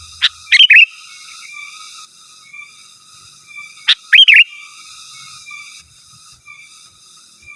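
Sooty-headed bulbul singing: two loud, short, liquid whistled phrases, one near the start and one about four seconds in, each a quick note followed by a fast up-and-down warble. A faint, steady chirring runs behind them.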